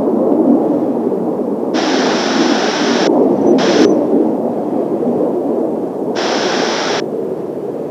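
Three abrupt bursts of radio static, like an air-band receiver's squelch opening and closing: each a flat hiss that switches on and off sharply, the first lasting over a second and the last almost a second, over a steady low rushing noise.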